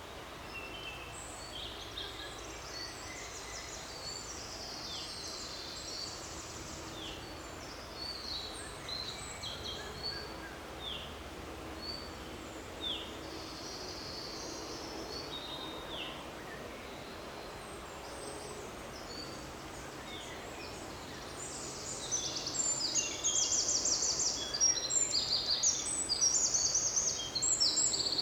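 Several birds singing in woodland over a steady background hiss: short, falling chirps repeat through the first part, and from about three-quarters of the way in a louder, fast trilling song takes over.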